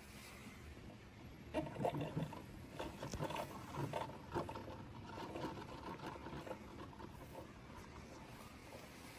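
Keurig K-Supreme single-serve coffee maker brewing: faint, uneven gurgling and dribbling of hot water and coffee into the cup. It is strongest for a few seconds from about a second and a half in, then trails off.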